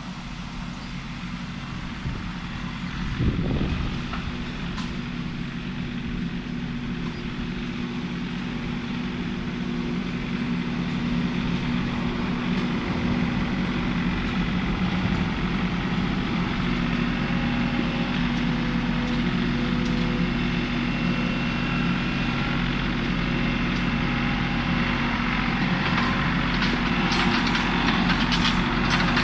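Tractor engine running steadily, gradually getting louder, with a single knock about three and a half seconds in.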